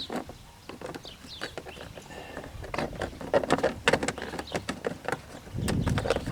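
Plastic engine covers of a Corvette C5 being pressed and snapped onto their studs over the fuel rails: a run of sharp clicks and knocks, busiest in the middle, then a louder rush of noise near the end.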